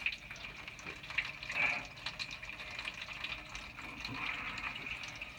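Water from a just-flushed toilet trickling and running through the house's drain plumbing, a steady trickle with small gurgling ticks.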